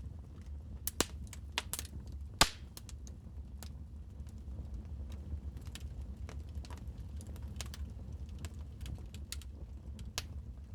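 Wood fire in a fireplace crackling: irregular sharp pops and snaps over a steady low rumble. The loudest pop comes about two and a half seconds in.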